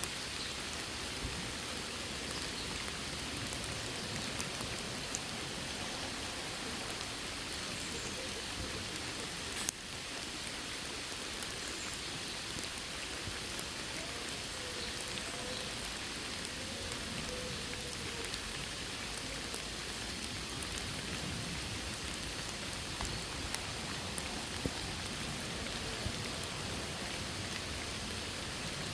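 Steady rain falling, with scattered sharper drops ticking nearby and one louder drip about ten seconds in.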